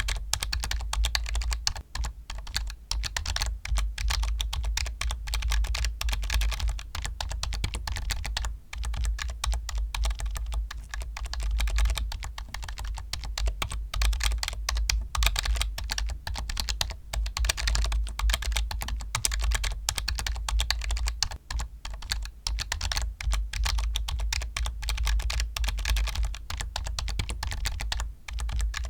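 Continuous fast typing on a computer keyboard: a dense, steady stream of key clicks with a low thud under each keystroke.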